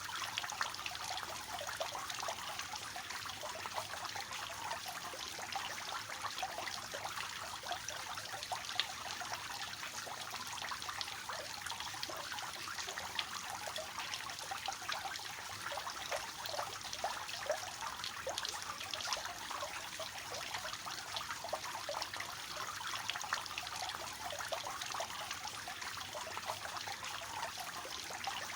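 Water falling and splashing steadily down a three-tiered cascading fountain, a continuous trickling splash with many small droplet spatters.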